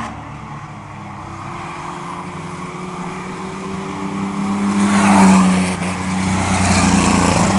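Racing trucks' engines running at speed on a short oval, growing louder as the pack comes toward the microphone and passing closest about five seconds in, then staying loud.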